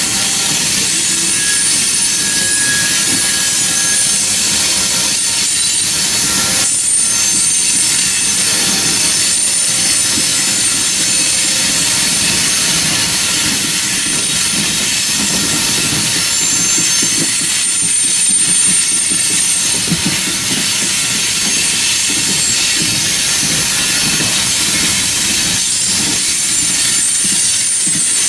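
Freight train of coal hopper cars rolling steadily past, wheels clattering over the rails, with thin high-pitched wheel squeal that comes and goes.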